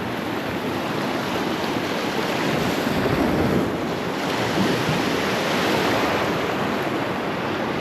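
Gulf surf breaking and washing onto the beach in a steady rush, with wind buffeting the microphone.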